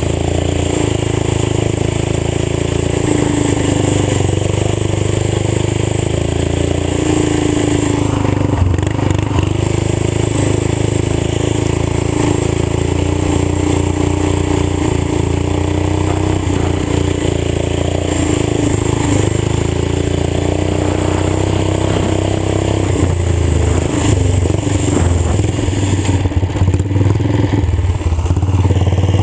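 Old tractor engine running through an open, unmuffled exhaust pipe, loud and steady with small rises and falls in speed as it is driven.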